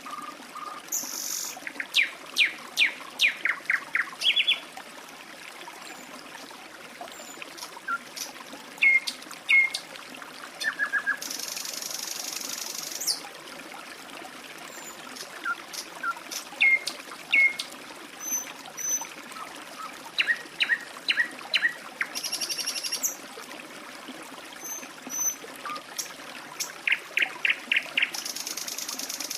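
Songbirds chirping in quick series of short, falling notes over a steady trickling stream, with a few high, hissing bursts lasting a second or two.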